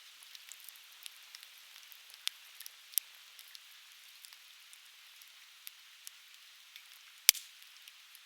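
Conifer firewood burning and crackling, with scattered sharp pops over a steady hiss. One much louder pop comes about seven seconds in.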